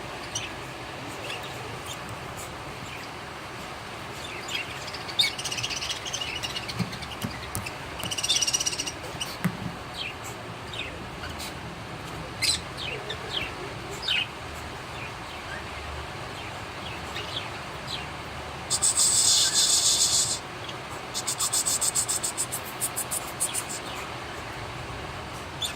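Cockatiels calling: scattered short chirps throughout, with bursts of rapid, buzzy, rasping pulses near the middle and twice near the end.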